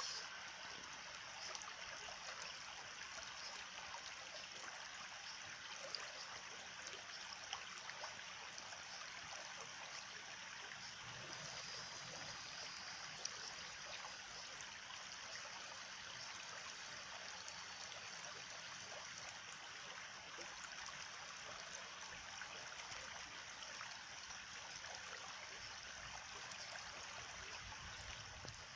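Small stream flowing and trickling steadily, with a few faint clicks in the water.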